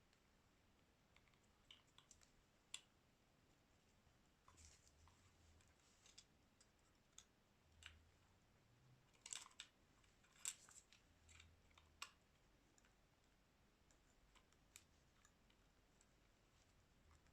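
Faint, irregular small clicks and taps of a phone's plastic parts and hand tools being handled during a screen replacement, with a few sharper clicks around the middle.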